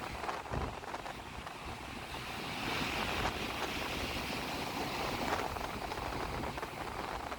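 Sea surf breaking and splashing in strong wind, a rushing wash that swells louder in the middle, with wind buffeting the microphone.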